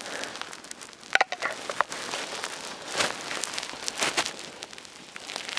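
Wood fire crackling, with irregular sharp snaps and pops, the strongest about a second in and around three seconds in, and a few brief faint whistles between.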